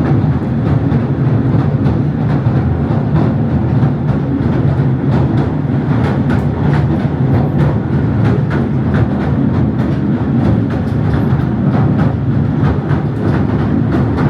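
Southend Pier Railway train running along the track: a steady loud rumble with frequent irregular clicks and knocks from the wheels on the rails.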